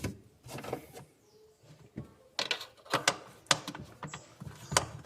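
Sharp clicks and knocks, about half a dozen at uneven intervals, of the plastic parts of a refrigerator's fan assembly being handled and fitted back together.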